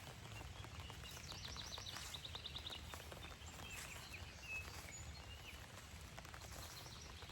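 Faint outdoor ambience of light rain pattering, with birds singing: a rapid trill of repeated high chirps about a second in, then a few scattered shorter chirps.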